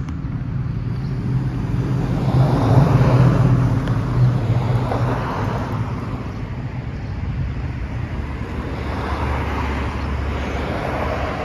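Road traffic: cars passing by, the loudest going past about two to four seconds in and another car passing near the end.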